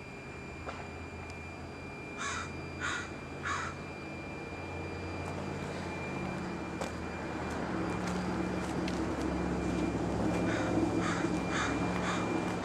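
A bird calling: three harsh calls about two seconds in and a run of four more near the end. Under them runs a steady low hum that grows louder in the second half.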